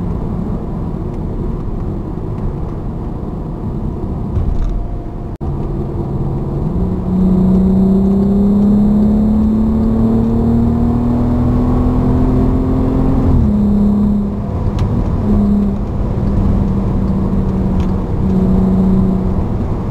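Passat R36's 3.6-litre VR6 engine and exhaust with the centre muffler removed, heard from inside the cabin while driving. The engine note holds steady, then climbs slowly under acceleration for about six seconds from a third of the way in and drops away suddenly as the throttle is lifted, after which a lower steady tone comes and goes.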